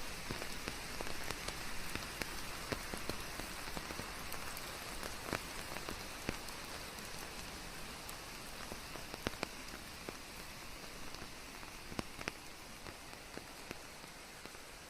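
Steady rain with many distinct drops striking a surface, mixed with a white-noise hiss, slowly fading out over the last several seconds.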